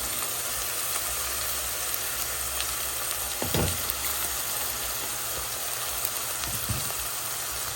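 Vegetables frying in oil in a pan: a steady sizzle, with one dull knock about three and a half seconds in.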